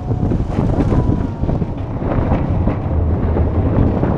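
Wind buffeting the microphone over the steady low rumble and irregular rattling of a small open-sided train running along its track.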